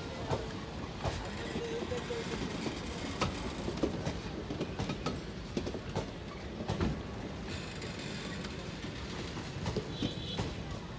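Passenger coaches rolling past at a slow arrival pace: a steady rumble of wheels on rail with irregular clacks and knocks as the wheels cross rail joints and points.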